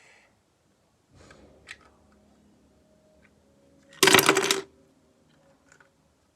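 Loose Lego plastic pieces clattering for about half a second, with a few lighter plastic clicks and handling sounds before it.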